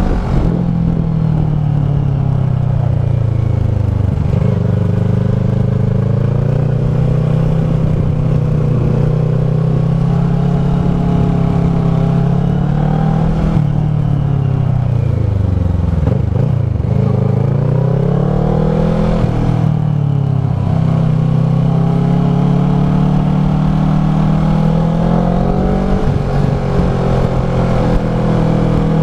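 Kawasaki ER-6f's 649 cc parallel-twin engine running through a Leo Vince SBK slip-on exhaust while riding. The engine speed rises and falls several times and drops lowest about halfway through, as the bike accelerates, shifts and slows.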